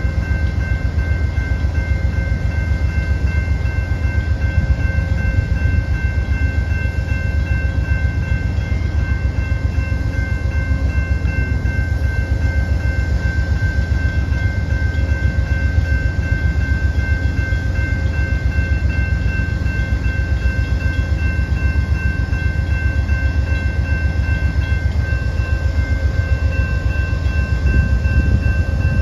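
Amtrak GE P42 diesel locomotive standing and running steadily: a heavy low engine rumble with a steady high-pitched whine on top.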